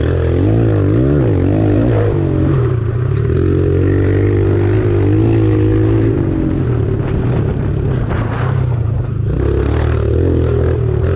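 Kawasaki KLX140 pit bike's single-cylinder four-stroke engine running, its pitch rising and falling again and again as the throttle is worked.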